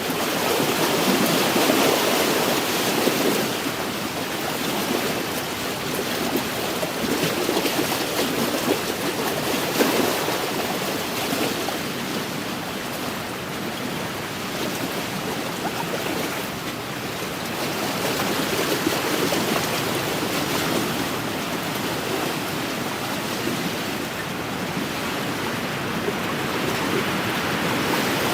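Waves washing against a lakeshore in a steady wind: a continuous rushing wash that swells and eases every few seconds.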